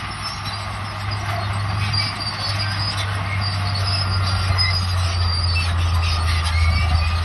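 Crawler bulldozer at work: the diesel engine running with a steady low hum, and the steel tracks giving short high metallic squeaks over a clattering noise. The engine grows slightly louder from about two and a half seconds in.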